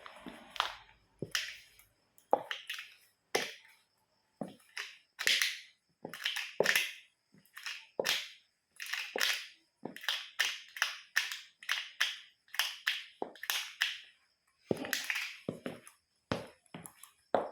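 A toy car cracking and crunching under a boot: a long run of short, separate crunches, one or two a second at an uneven pace, with brief silences between them.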